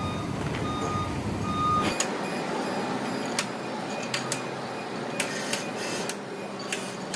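A vehicle's reversing alarm beeps evenly over a low engine rumble, then cuts off suddenly about two seconds in. After that come a few scattered sharp clicks and knocks.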